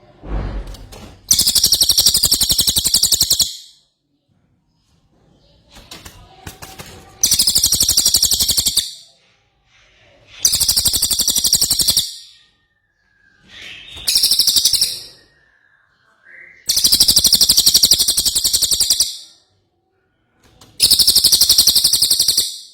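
A cililin songbird in full song: six bursts of a very high, rapid trill, each lasting one to two seconds, with short pauses between them.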